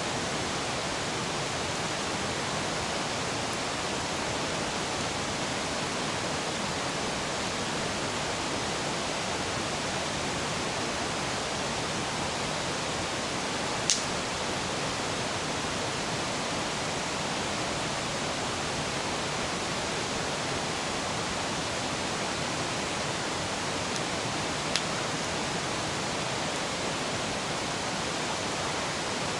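River water rushing in a steady, even roar, with two sharp clicks about ten seconds apart in the middle of it.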